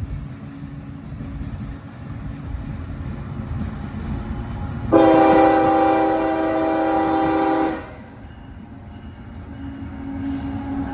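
Air horn of an approaching CSX freight locomotive sounding one long blast of about three seconds in the middle, over the steady low rumble of the oncoming diesel locomotives, which grows louder near the end.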